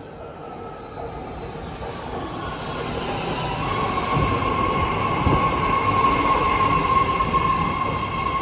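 A six-car BART Fleet of the Future train pulls in toward the platform, its running noise growing steadily louder. A steady high whine sets in about three and a half seconds in and holds to the end.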